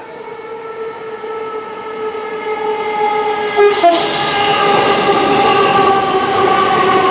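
A train approaching at speed on the main line, growing steadily louder, with a steady whine of several tones over rising rail noise.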